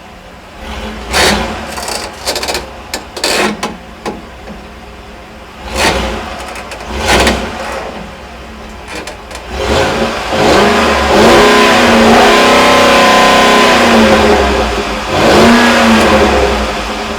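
Ford 5.4-litre Triton SOHC V8 being revved at a standstill: several quick throttle blips, then a longer rev held for a few seconds and one more near the end, dropping back to idle between them.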